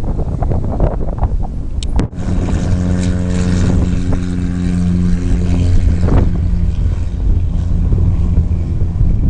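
Steady low drone of a propeller aircraft's engines, with wind buffeting the microphone. It starts after a sudden cut about two seconds in and weakens after about six seconds.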